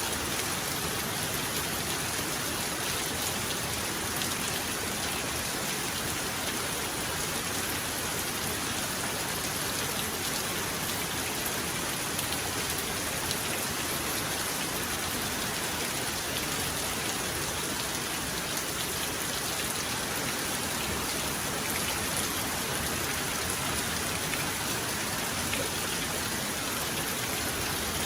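Heavy rain falling steadily, an even hiss with scattered drop ticks and no thunder.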